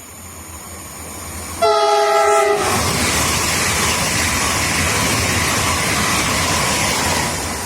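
Passenger train approaching at speed and sounding its horn, a chord lasting about a second, then rushing past loudly with rail and wheel noise that begins to fade near the end.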